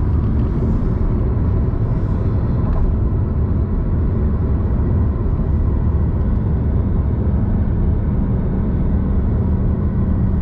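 Car driving at speed: a steady low rumble of road and engine noise.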